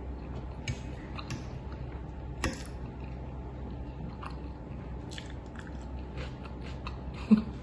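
A person chewing and biting a mouthful of creamy pasta with crisp bell peppers: small crunches and wet mouth clicks, with a sharp louder click near the end.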